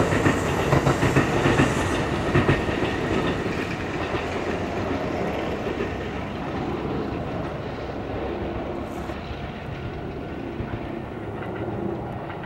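Kintetsu electric train running on the parallel tracks, its wheels clicking over rail joints. Loudest at first, then fading as it moves away.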